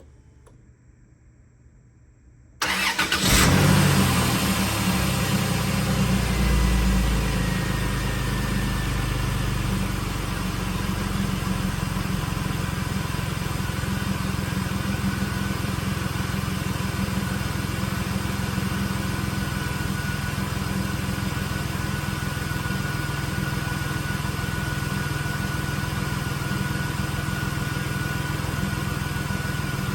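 2000 Chrysler 300M's 3.5-litre V6 starting from cold about two and a half seconds in, running at a raised cold-start idle that drops lower about ten seconds in, then idling steadily. A faint high whine, falling slightly in pitch, runs along with the idle.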